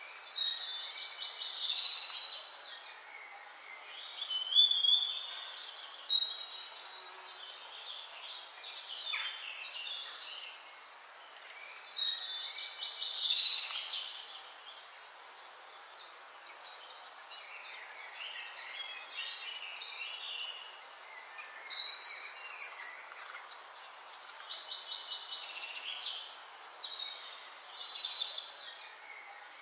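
Songbirds singing, short bright song phrases and chirps coming every few seconds, the loudest about a second in, near 13 s and near 22 s, over a steady faint background hiss.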